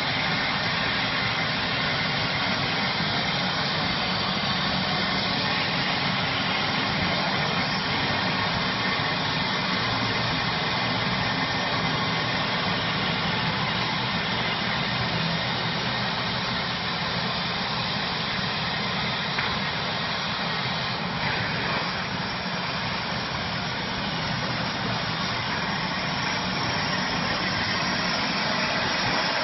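CNC plasma cutter's torch cutting stainless steel sheet: a steady, even hiss.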